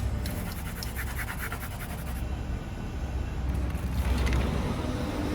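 Engine running steadily at idle with a low hum, while light clicks, rattles and scraping noises from equipment being handled come and go over it.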